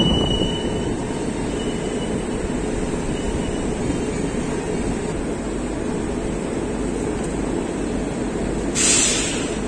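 Express train passenger coaches rolling past close by: a steady rumble of wheels on rail, with a faint high wheel squeal that comes and goes in the first few seconds. A short, loud hiss sounds near the end.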